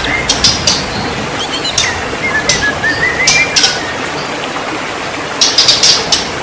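White-rumped shama singing: bursts of harsh, rasping chatter mixed with short whistled notes that bend up and down, the longest run of whistles in the middle and a dense burst of chatter near the end.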